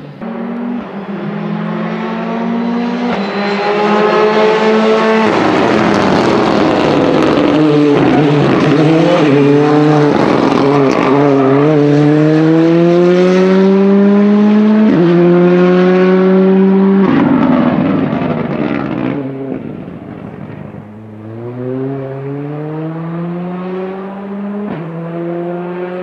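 Rally car engine accelerating hard through the gears: the pitch climbs and drops sharply at each quick upshift. In the middle it wavers as the car slows and gets back on the power, and this is where it is loudest. It is fainter near the end, still pulling through further upshifts.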